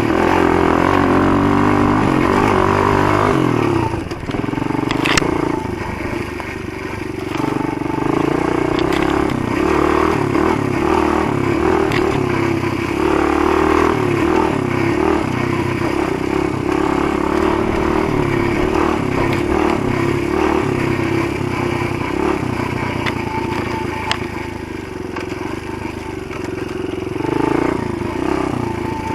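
Motoland GF125 pit bike's single-cylinder four-stroke engine running under load while ridden, revs rising and falling. Occasional knocks and rattles come from the bike, with a sharp knock about five seconds in.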